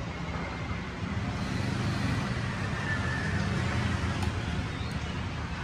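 Steady rumble of road traffic going by, a low continuous noise with no distinct events.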